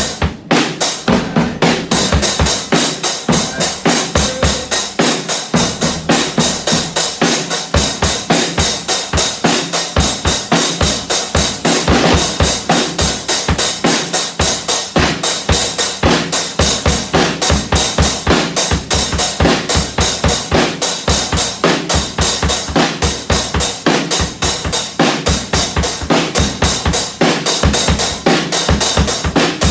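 Drum kit played in a fast, steady beat of bass drum and snare, about four hits a second, with a brief break just after the start.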